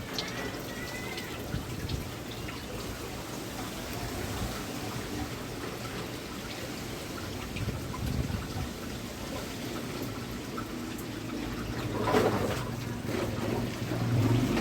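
Steady rushing noise of wind and rain as a storm comes on, swelling louder about twelve seconds in.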